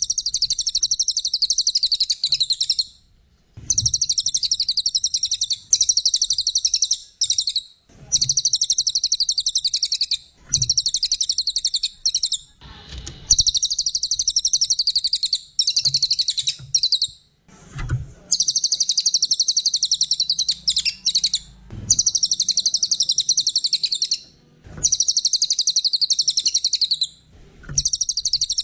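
A small songbird singing a string of very rapid, high-pitched trills, each phrase lasting two to four seconds with short pauses between them.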